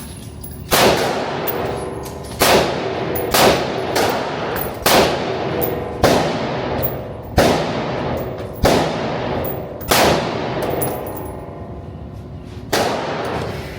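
Gunshots on a shooting range: about nine single shots at uneven intervals of one to three seconds, each with a sharp crack and a ringing tail that dies away.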